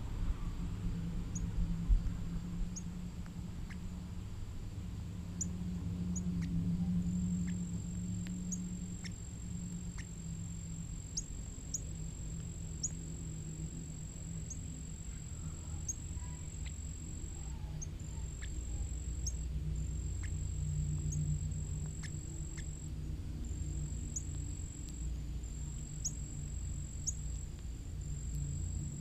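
Backyard ambience: a low steady hum underneath, a high steady insect drone that sets in about seven seconds in with brief breaks, and a bird's short high chip notes, each a quick downward sweep, repeated every second or two.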